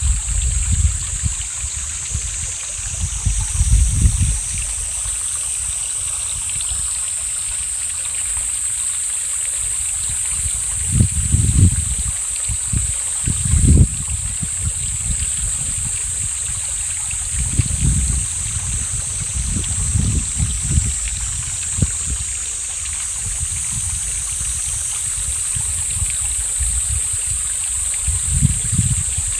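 Mountain stream running steadily, with gusts of wind buffeting the microphone in low rumbles every few seconds.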